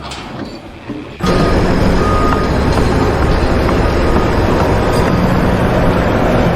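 Heavy vehicle or construction machine running loudly and steadily, cutting in suddenly about a second in, with a couple of short high beeps over it.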